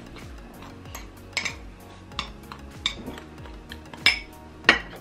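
A spoon clinking against a mug, about five sharp, irregular knocks, the loudest about four seconds in, as the dry mug-cake ingredients (sugar, flour, cocoa) are mixed.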